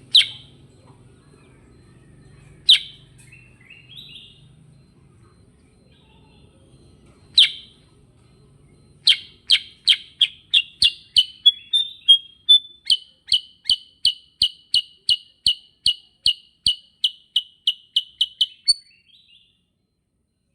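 Kutilang sutra bulbul singing: three single sharp chirps spaced a few seconds apart, then a long, even run of rapid repeated notes, about five every two seconds, that stops shortly before the end.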